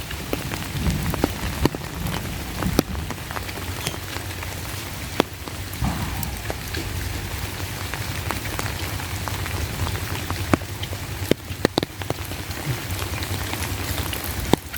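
Steady rain falling, with many sharp, irregular ticks of single heavy drops striking close by.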